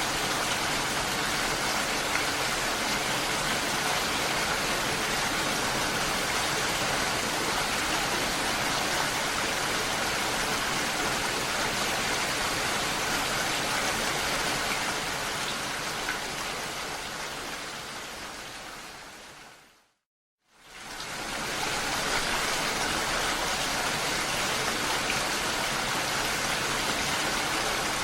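Steady, even rainfall, fading out to silence about twenty seconds in and fading straight back up.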